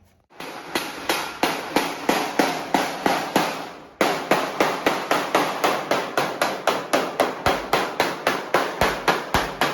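Hammer blows in a quick, even rhythm, about three a second. The rhythm briefly breaks about four seconds in, then carries on.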